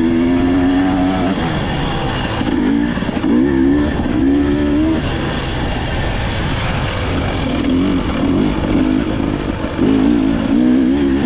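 Dirt bike engine being ridden hard, its note rising and falling over and over as the throttle is worked, over a steady noisy rush.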